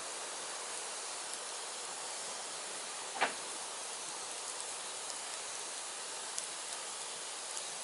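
Firewood burning: a steady hiss with scattered small crackles and one louder pop a little over three seconds in.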